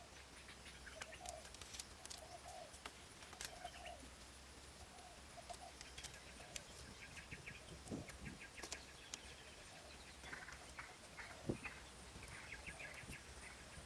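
Faint bird calls: short low calls repeating, with higher chirps and scattered light clicks.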